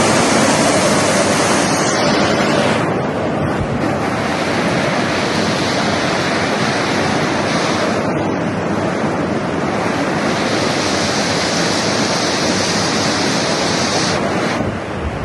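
Heavy rain and rushing water making a loud, steady noise that changes in tone a few times.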